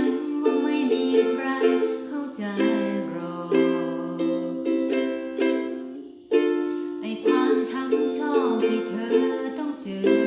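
Ukulele playing strummed chords in a steady rhythm, with a short break about six seconds in before the strumming starts again.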